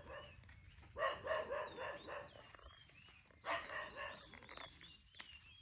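Two calls from a farm animal, one about a second in and another about three and a half seconds in, with small birds chirping between them.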